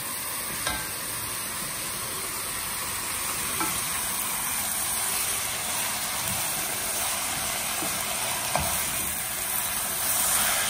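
Shredded cabbage and soaked basmati rice sautéing in butter and oil, a steady sizzle as a spatula stirs them, with a few faint clicks of the spatula against the pot.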